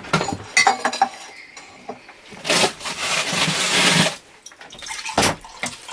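Kitchen handling sounds while grapefruit juice is made: a few clicks and knocks of dishes and utensils, then a rubbing, rushing noise lasting about a second and a half, and a shorter one near the end.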